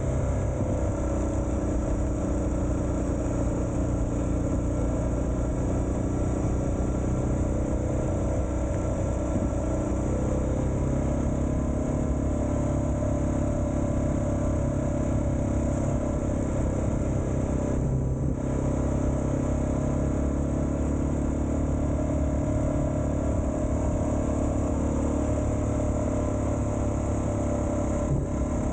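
Suzuki DR650's single-cylinder four-stroke engine running steadily under way, the motorcycle holding an even pace.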